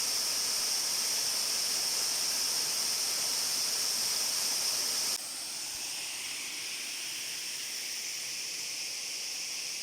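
Waterfall rushing steadily, an even hiss of falling water. About halfway through it drops suddenly to a quieter level.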